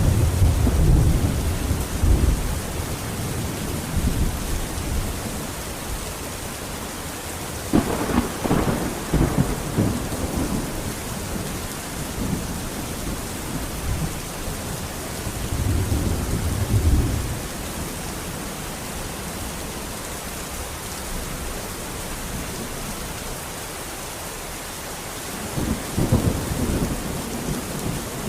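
Steady rain in a thunderstorm, with rolls of thunder rumbling over it four times: at the start, about eight seconds in, around sixteen seconds, and again near the end.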